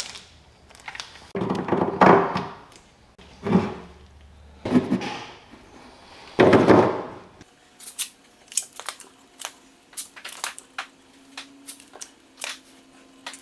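Hand work on a boat transom: several dull thunks, then a quick run of small, sharp clicks.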